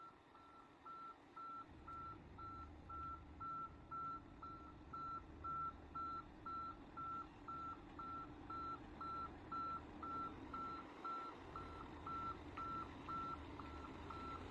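Reversing alarm of a large 6x6 truck beeping evenly, about two beeps a second, while the truck backs up, with its engine rumbling low underneath from about two seconds in.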